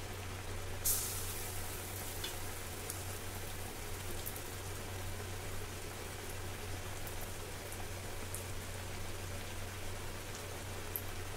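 Battered eggplant slices (beguni) deep-frying in hot oil in a kadai: a steady sizzle with scattered pops. About a second in, a short louder burst of sizzling as another battered slice goes into the oil. A low steady hum runs underneath.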